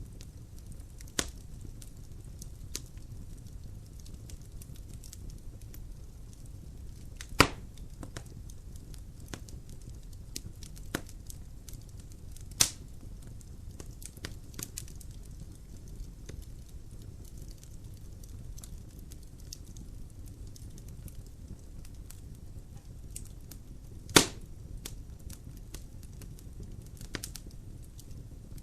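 Logs burning in a fireplace: scattered sharp crackles and snaps over a low steady rumble of the fire, with three louder pops about seven, twelve and twenty-four seconds in.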